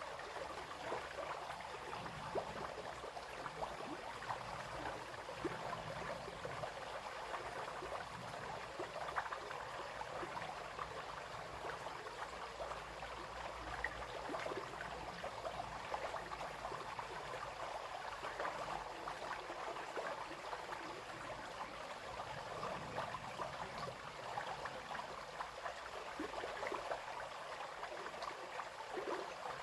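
A small brook babbling and trickling steadily over stones, a continuous burble with many small splashes.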